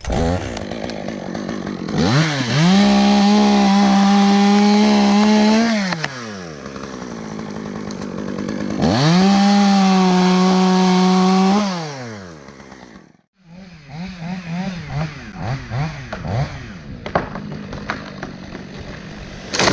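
Two-stroke chainsaw run up to full throttle twice, each time holding a steady high pitch for about three to four seconds before dropping back. After a brief cut-out about two-thirds of the way in, it runs unevenly at lower speed.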